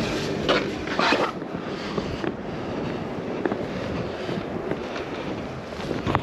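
Wind buffeting the microphone in a snowstorm, a steady rushing noise with a few brief louder gusts or rustles about half a second and one second in.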